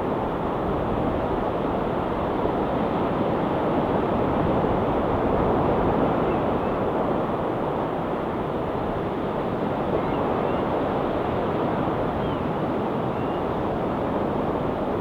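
Ocean waves washing steadily onto a rocky shore, an even wash of surf noise. A few faint, short high bird calls come through in the second half.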